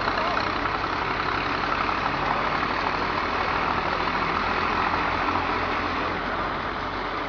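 Small garden tractor engines running steadily at a low, even speed.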